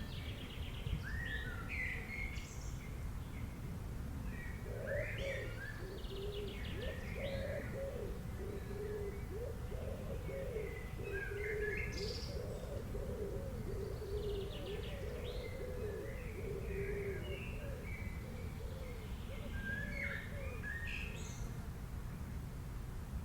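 Several wild birds chirping and trilling in scattered short phrases. A low, repeated cooing call runs through much of the middle. A steady low background rumble sits under them.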